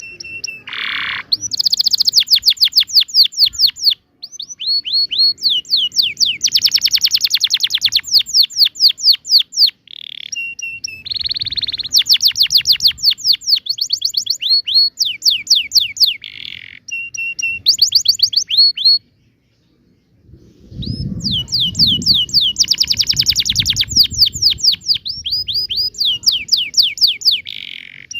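Domestic canary singing a long rolling song: fast trills of rapidly repeated high sweeping notes, broken by short steady whistles, with a pause of about a second two thirds of the way through. A low rumble sits under the song just after the pause.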